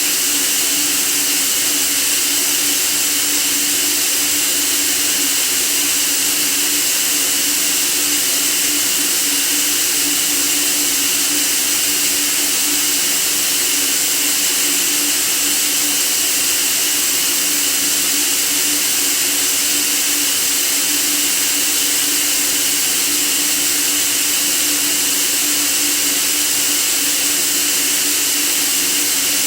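Steady white noise: an unchanging hiss, strongest in the upper range, with a faint steady hum beneath it.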